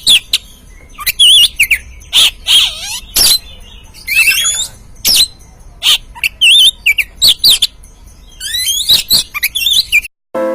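Oriental magpie-robin (kacer) singing loudly: sharp, clipped notes mixed with fast warbling, wavering whistled phrases, in short bursts with brief pauses. Near the end the song cuts off and music begins.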